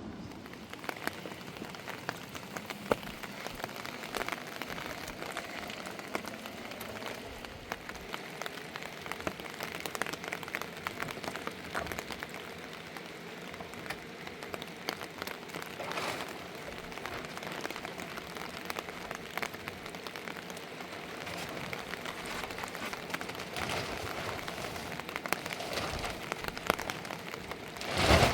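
Steady rain falling, an even hiss of many small drops with sharper individual drop hits scattered through it. A louder, brief noise comes just before the end.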